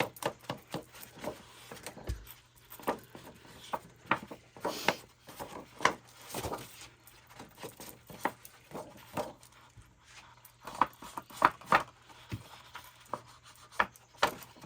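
Paper and cardstock being handled and shuffled on a crafting table: irregular rustles, light taps and clicks.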